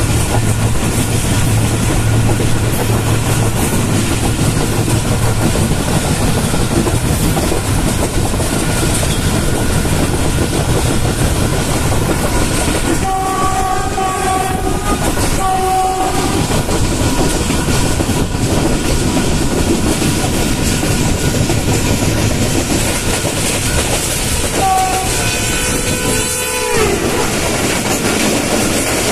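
A train running along the track, heard from on board as a steady rumbling rush. About halfway through a train horn sounds two short blasts. Near the end a longer horn blast drops in pitch as another train passes on the next track.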